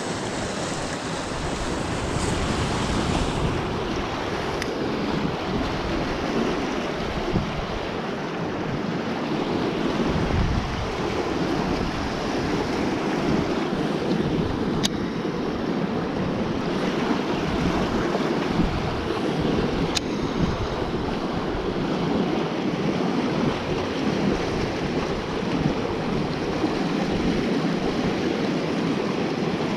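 Steady rushing noise of wind on the microphone and moving water around the boat, with two sharp clicks partway through.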